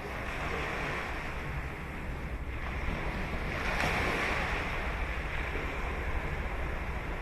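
Ocean surf breaking and washing up a beach as a steady hiss, swelling to its loudest about four seconds in, with a low rumble of wind on the microphone.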